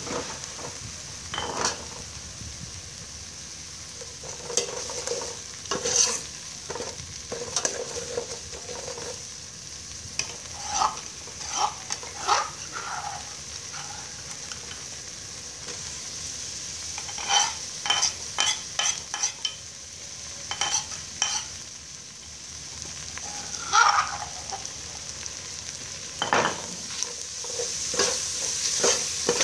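Food frying in oil in an aluminium pot, with a steady high sizzle. A metal ladle clinks and scrapes against the pot now and then, with a cluster of quick clinks toward the end as a yellow herb paste is stirred in.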